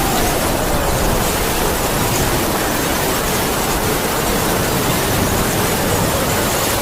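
Heavy rain falling steadily with howling wind, a faint whistling tone that sinks in pitch and rises again near the end.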